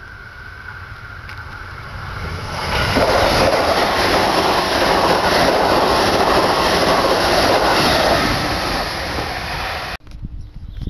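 Electric train passing close by at speed: a rising rumble and clatter of wheels on rails, loud from about two and a half seconds in and easing near the end. About a second before the end the sound cuts off abruptly.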